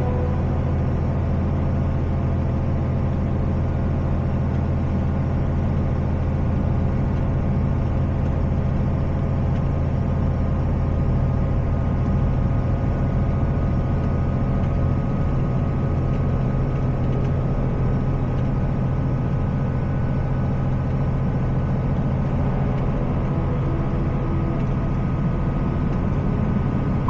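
Semi truck's diesel engine running steadily, a constant low hum with no change in pitch.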